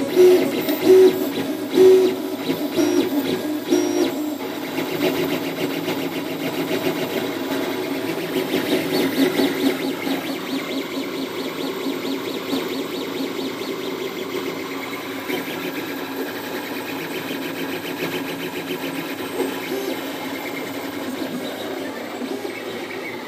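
Leapfrog Creator HS 3D printer's stepper motors whining and buzzing as the print head makes its moves, the pitch changing from one short move to the next.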